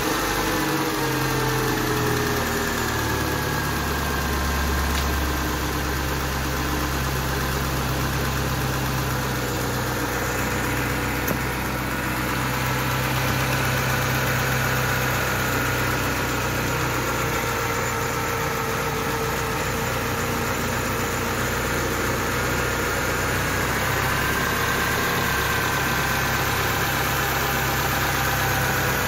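Peugeot 206 engine idling steadily just after being started, turning the freshly repaired power-steering pump on its belt as a test run. The idle settles slightly in the first few seconds.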